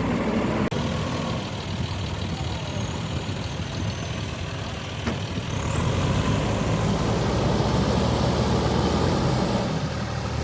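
Heavy diesel engine running steadily, getting louder and pulling harder from about six seconds in.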